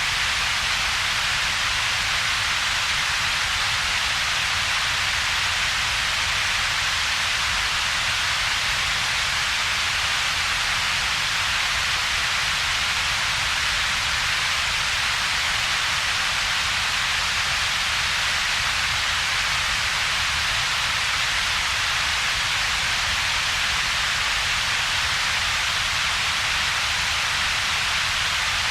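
Synthetic coloured noise with two peaks in its spectrum, steady and unchanging. A bright, strong hiss sits high up, and a weaker low rumble sits beneath it, with a hollow between the two.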